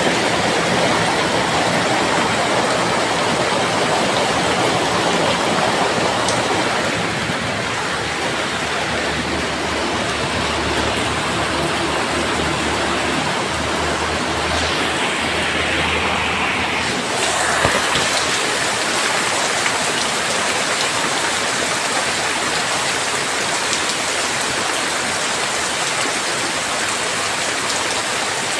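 Heavy rain falling steadily, a dense even hiss, with a low rumble underneath for several seconds in the middle. About 17 seconds in, the character of the rain shifts abruptly.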